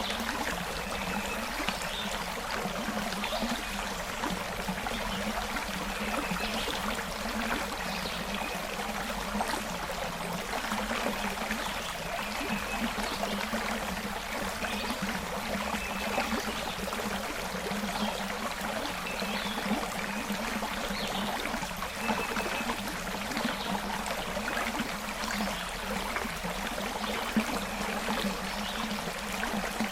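Forest creek flowing steadily, with a continuous rush of water and small bubbling trickles.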